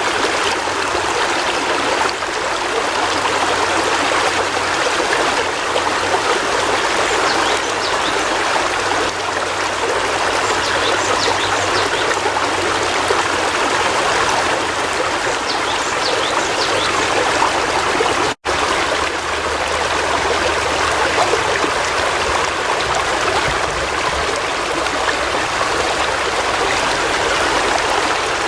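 River water flowing steadily over rocks, an even rushing and trickling. It drops out for an instant about two-thirds of the way through, then carries on unchanged.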